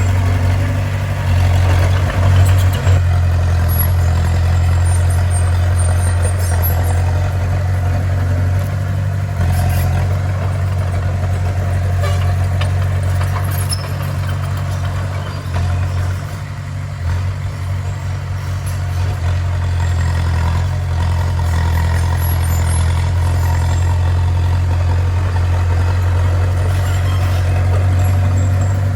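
Bulldozer's heavy diesel engine running steadily, easing off slightly for a few seconds about halfway through.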